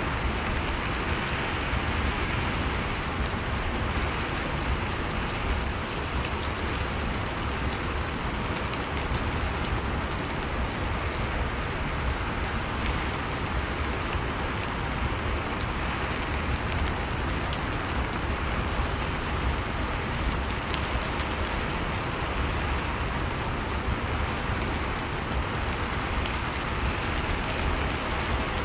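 Steady rain falling, an even hiss of rain on surfaces with a low rumble beneath.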